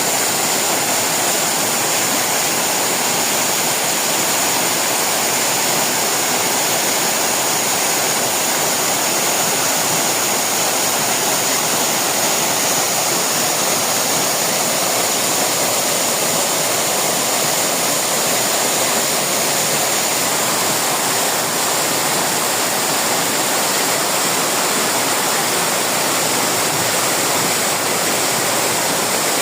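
Mountain waterfall pouring in full spate after rain: a loud, steady rush of falling water.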